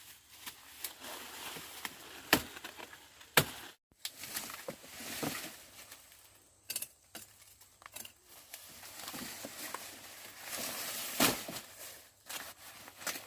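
Sugarcane being cut by hand: a few sharp chops, one about two seconds in, another a second later and one near the end, among steady rustling and crackling of the cane leaves.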